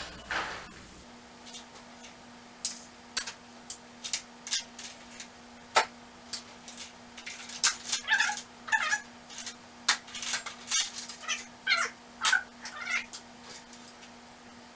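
Metal hand tools (pliers, wire cutters, screwdrivers, bits) clinking and rattling as they are picked through and set down in a toolbox: a string of short sharp clicks, some with a brief metallic ring, busiest in the second half. A steady low hum runs underneath from about a second in.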